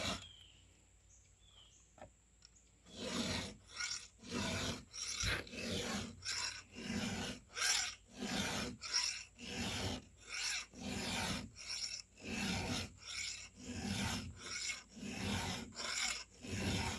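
A hand file rasping across the cutting teeth of a chainsaw chain in steady, even strokes, about two a second, beginning about three seconds in.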